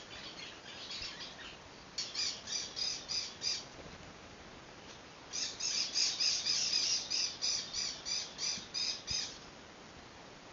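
A bird singing in runs of rapidly repeated high notes, about four or five a second: a short run about two seconds in, then a longer, louder run from about five and a half to nine seconds.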